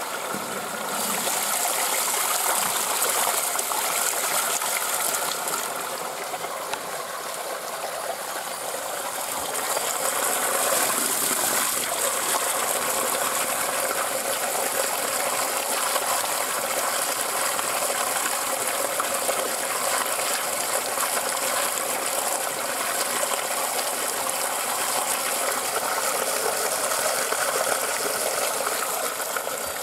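Cold spring water flowing out in a heavy stream and splashing steadily, dipping slightly for a few seconds before swelling again about ten seconds in.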